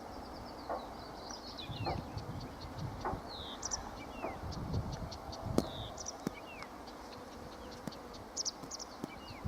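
Small birds chirping, with short high notes and quick falling calls scattered through, over a steady low background hum and a few soft knocks.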